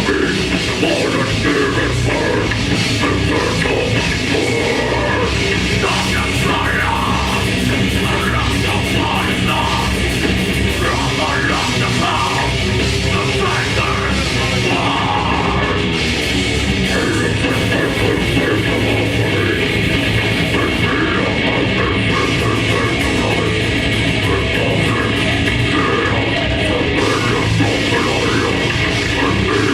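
A grindcore band playing live at full volume: distorted guitars, bass and drums in a dense, unbroken wall of sound.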